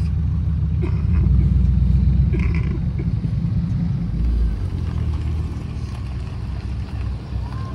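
Chevrolet Camaro engine running with a deep rumble, louder for the first few seconds and then easing off.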